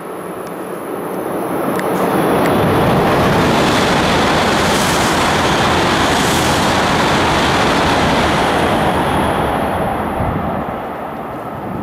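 E7/W7-series Shinkansen train passing straight through a station at high speed on the through track. Its rushing noise builds over the first couple of seconds, stays loud for about six seconds, then fades away near the end.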